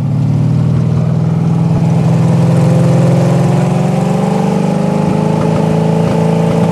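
1978 Jeep CJ5's AMC 304 V8, running through headers, held at a steady fast idle with the revs slowly climbing over the last few seconds.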